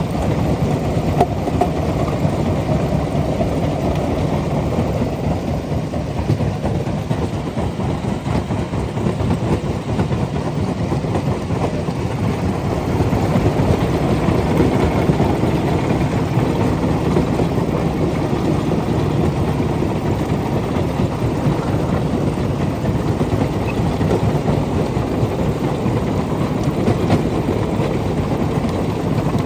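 Stone-crushing plant machinery running under load, a steady, dense mechanical noise with no pauses.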